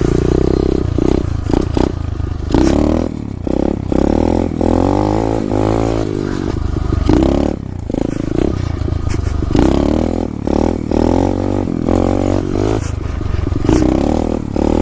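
SSR 125 pit bike's small single-cylinder four-stroke engine being ridden hard, its pitch rising and falling over and over as the throttle is opened and shut every second or so, with some scraping and clattering.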